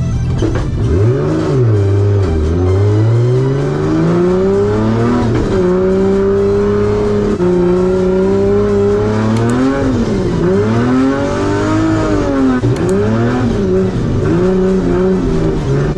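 Nissan 180SX drift car's engine revving hard on track in the wet, its pitch climbing, holding, then dropping and climbing again over and over as the throttle is worked through a run. Background music sits faintly underneath.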